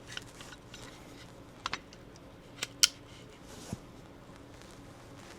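A few sharp light clicks and taps of a pistol weapon light being fitted onto a Glock frame's accessory rail: a quick pair, then two more, then one last click.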